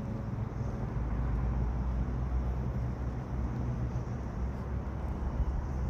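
Steady low drone of a motor, unchanging throughout, over a background hiss.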